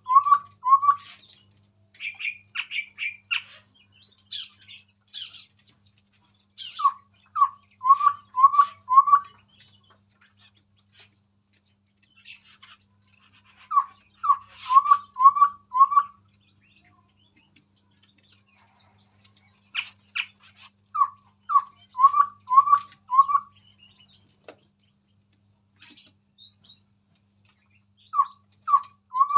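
Chestnut-rumped babbler singing: short runs of four or five quick, evenly spaced notes, each run repeated about every seven seconds, with scattered higher, quicker chirps in between.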